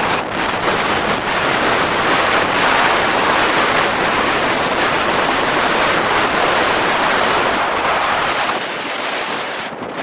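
Strong wind buffeting the microphone: a loud, steady rushing noise with no clear motor tone in it, easing slightly near the end.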